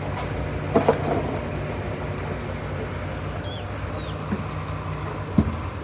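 Komatsu D31P bulldozer's diesel engine running steadily, with sharp metal-and-rock clanks about a second in and near the end and a couple of short high squeaks in between.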